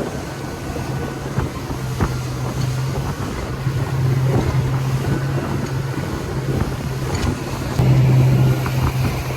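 Motorboat engine running steadily under way, a low, even drone that grows louder about eight seconds in, with wind buffeting the microphone.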